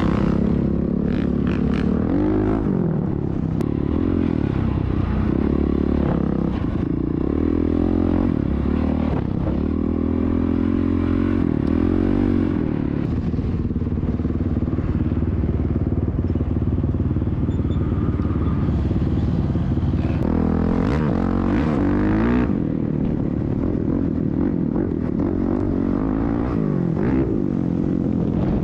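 Dirt bike engine running hard, its pitch rising and falling over and over as the throttle is worked and it is shifted through the gears.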